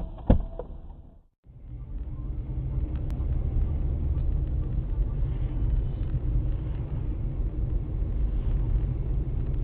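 Car driving, heard from inside on a dashcam: a steady low rumble of engine and road noise. Near the start there is one sharp knock, then a brief cut to silence before the rumble resumes.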